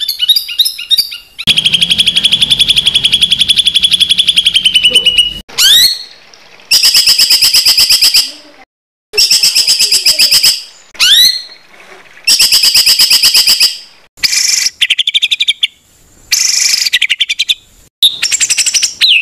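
Songbird tutor recording of harsh, rapid song bursts: trills of fast repeated notes, each run lasting one to two seconds, with a few quick upward-sweeping whistles between them and short pauses.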